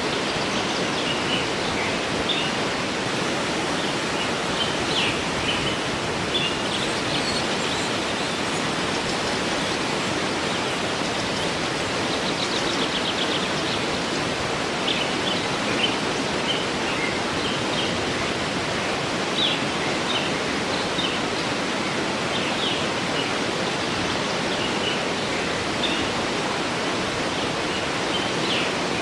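Waterfall rushing steadily, with small birds chirping in short calls scattered throughout and a quick trill about twelve seconds in.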